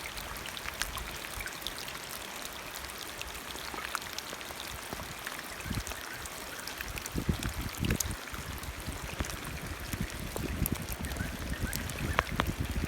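Rainwater runoff running over a small temporary waterfall into a pond: a steady rushing, trickling hiss with scattered drips. From about seven seconds in, irregular low thumps sit beneath it.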